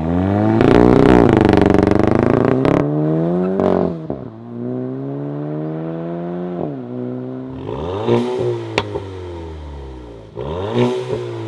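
Mk8 VW GTI's turbocharged EA888 Gen 4 four-cylinder heard through a muffler-delete exhaust. It revs up and is held high for a couple of seconds, then drops. It climbs steadily and falls sharply, then gives two quick rev blips, each followed by a sharp pop.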